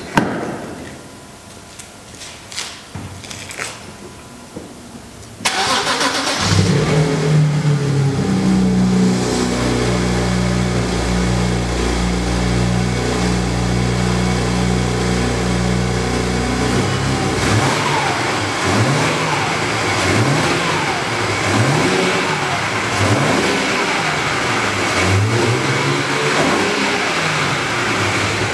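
BMW 335i's turbocharged straight-six: a few clicks, then the engine starts about five seconds in and idles steadily. In the second half it is blipped in repeated short revs. The owner suspects a bad turbo.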